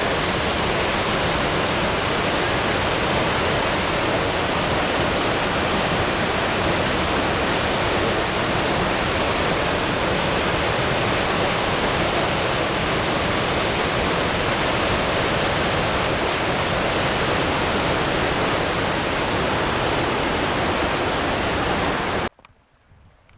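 Steady rush of falling water from the Goðafoss waterfall, cutting off abruptly near the end.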